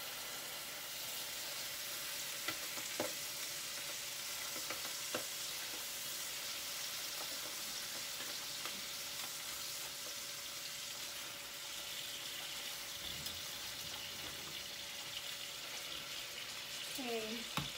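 Chicken pieces sizzling as they brown in hot melted butter in a frying pan: a steady, even hiss, with a few light clicks of handling at the pan.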